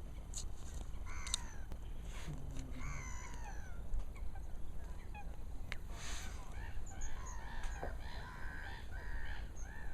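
Waterbirds calling, many short pitched calls overlapping, most densely in the second half, over a steady low rumble.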